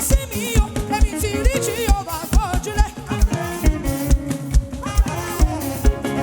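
Live band playing upbeat African praise music: a steady kick drum about twice a second under sustained instrument notes, with a wavering, bending lead melody in the first half.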